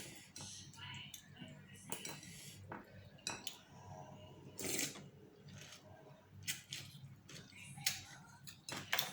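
Eating utensils clinking and scraping against a noodle bowl while eating, as a scatter of short irregular clicks and chinks.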